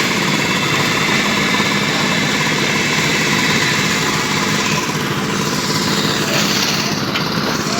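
Engine of construction machinery running steadily at a slab-casting site, a dense mechanical din with a steady low hum.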